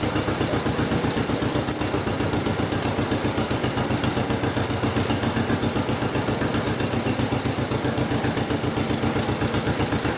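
1955 John Deere 40S tractor's two-cylinder engine running steadily, an even, rapid pulsing beat that holds unchanged throughout.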